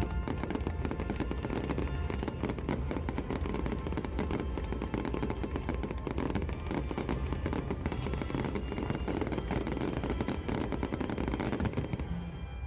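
Fireworks barrage: a dense, fast run of crackling bangs and pops over a low rumble, with music playing faintly underneath. The bangs stop about a second before the end and the music is left.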